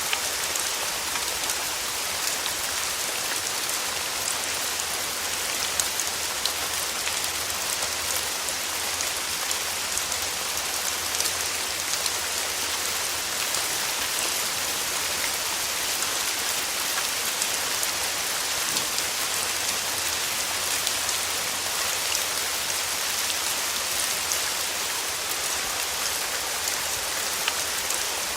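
Steady summer rain falling and pattering on surfaces, an even hiss with scattered individual drop ticks.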